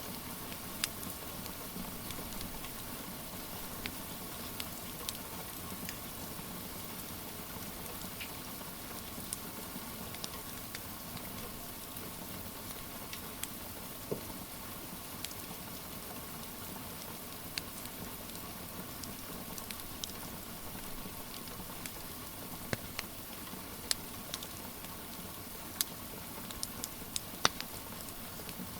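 Steady rain patter, with sparse sharp crackles and pops from a wood fire scattered through it. The pops come more often and louder near the end.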